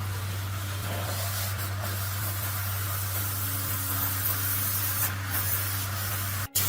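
Steady spraying hiss over a low, even hum, cut off for an instant about six and a half seconds in and then carrying on.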